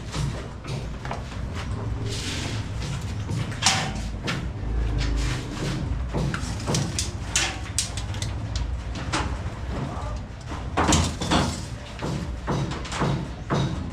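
Irregular knocks, clacks and scrapes of hand work on a ceiling: fibre-cement board and metal framing being handled and fitted.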